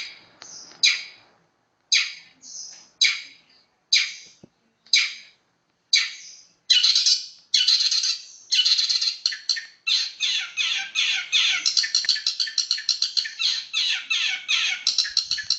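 Long-tailed shrike (cendet) singing: short falling calls about once a second, then from about seven seconds in a fast, dense, unbroken run of song, the quick tight 'roll' that keepers prize.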